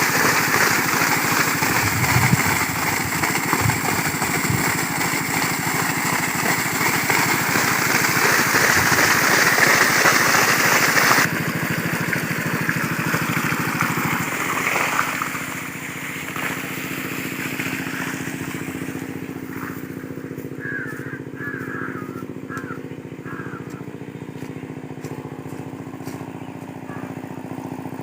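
Small diesel water-pump set engine running steadily with a fast, even chugging, with a hiss over it. It is louder at first and drops in level about fifteen seconds in.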